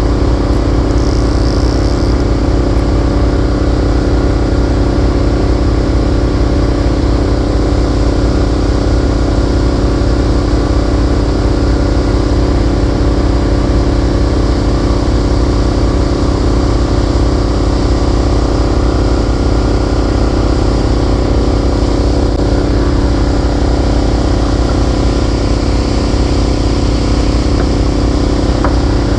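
Motorboat engine running steadily at a constant speed, with a dense, even drone and no changes in pitch or level.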